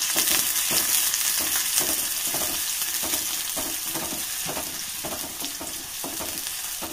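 Chopped shallots sizzling in hot coconut oil in an aluminium kadai, stirred with a wooden spatula in strokes about twice a second; the sizzle gradually quietens. They are being fried for a tempering.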